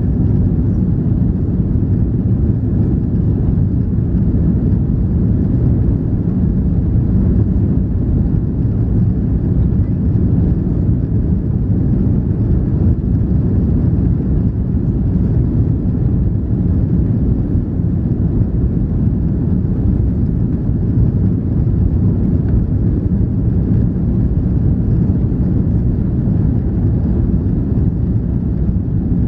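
Steady low rumble inside the cabin of an Airbus A340-300 under way, from its four CFM56 engines and the rush of air past the fuselage.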